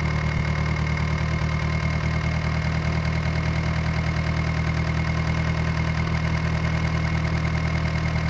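Tractor engine running steadily at idle, a low, even, pulsing drone with no change in speed.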